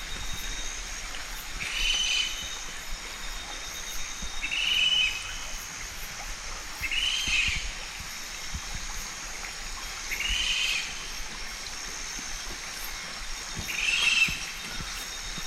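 A bird calls five times, one short arched call every two to three seconds, over a steady high hiss of outdoor ambience.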